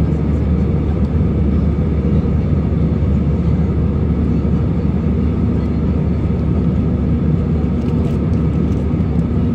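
Steady low drone of an airliner's engines and rushing air, heard from inside the passenger cabin during the flight.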